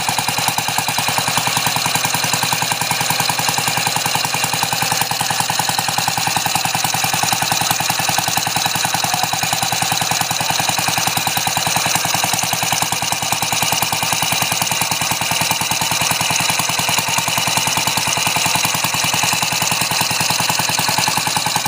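Homemade water-cooled engine built from beer cans running steadily, with rapid, even firing pulses.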